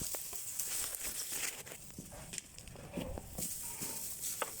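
Scattered crackles and rustling of dry grass and sticks being thrown onto a small campfire, with a sharp click near the end.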